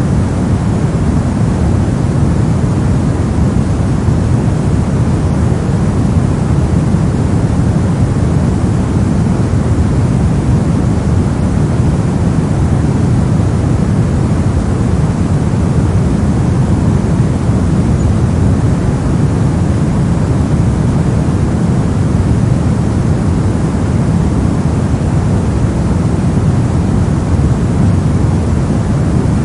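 Continuous white-noise track: a loud, unchanging rushing hiss with most of its weight in the low end.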